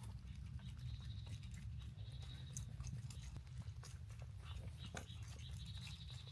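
A dog chewing its food, with many small irregular clicks of bites.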